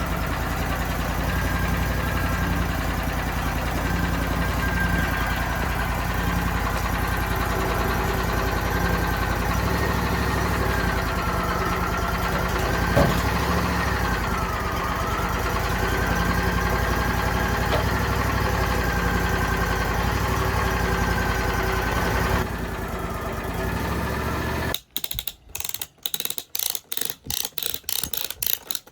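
An engine running steadily with a wavering whine for most of the stretch. Near the end it drops away and a ratchet clicks rapidly, about four clicks a second.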